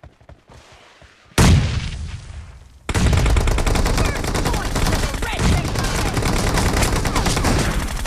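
Shooter video game gunfire: a sudden loud boom about a second and a half in that fades away, then continuous rapid automatic weapon fire from about three seconds in.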